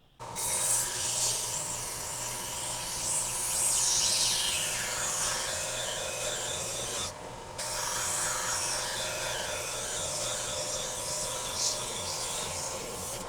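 Oscillating belt sander running with a wooden piece held against the belt, rounding over a square corner. The abrasive grinding on the wood stops for about half a second around seven seconds in, as the piece comes off the belt, then resumes.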